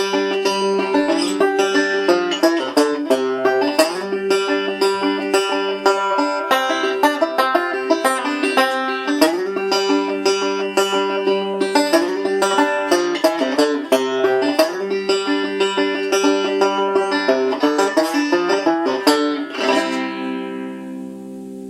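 Five-string banjo, converted from a tenor, with a Remo Renaissance plastic head, played three-finger style in a quick run of picked notes. Near the end it stops on a final chord that rings and fades out.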